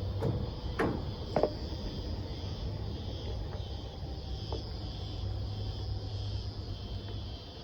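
Outdoor ambience: a steady low hum under a high, pulsing insect chorus, with a few short knocks about a second in.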